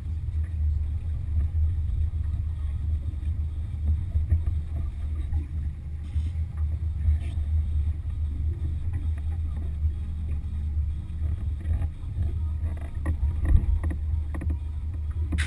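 Boat running under its Yamaha F60 four-stroke outboard, a steady low rumble.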